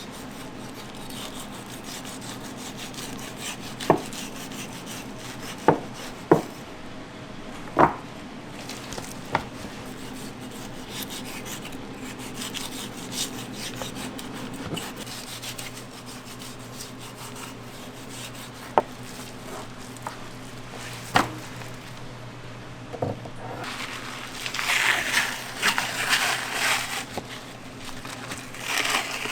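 Kitchen food preparation: scattered sharp knocks and rubbing on a wooden surface, over a steady low hum, with a stretch of louder scraping and rustling about 24 seconds in.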